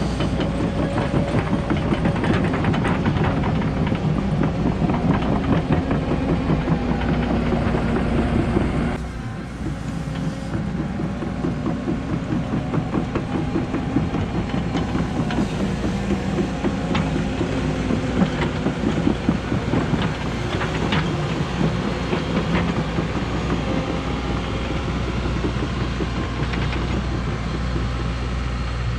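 Cat 314E hydraulic excavator working a slope: its diesel engine runs steadily under load, with continual irregular clanking and knocks from the tracks and bucket. The sound dips briefly about nine seconds in, then picks up again.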